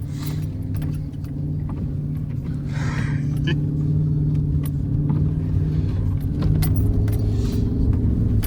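A vehicle engine running at a steady pitch, with scattered light clicks and rattles throughout and two short rushes of hiss, about three seconds in and near the end.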